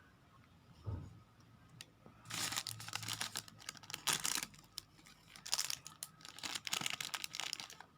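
A soft knock about a second in, then a thin plastic wrapper crinkling and tearing in repeated bursts as it is pulled open by hand.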